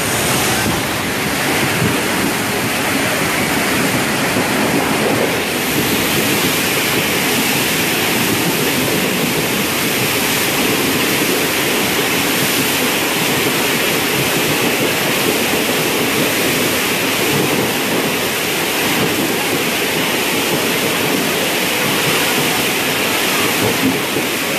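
Steady, loud rush of water as a passenger train runs through floodwater covering the tracks, its wheels and carriages throwing up spray along the platform edge.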